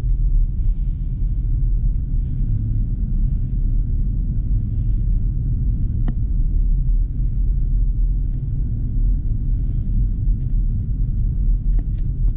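Steady low rumble of road and tyre noise from a BMW i4 M50 electric car driving along, with brief soft hisses every second or two.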